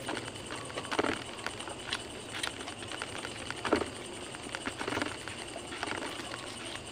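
Close-up chewing and mouth noises of a person eating grilled fish by hand, in short sharp clusters every second or so, over steady insect chirping in the background.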